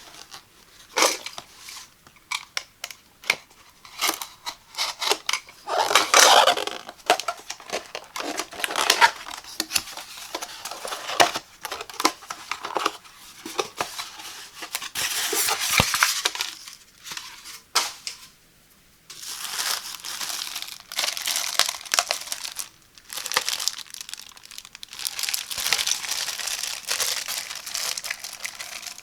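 Unboxing handling noises from the box and packaging: scattered taps and clicks, then several long stretches of crinkling and rustling, with some tearing.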